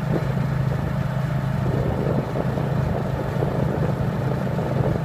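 Steady engine and road hum of a car being driven.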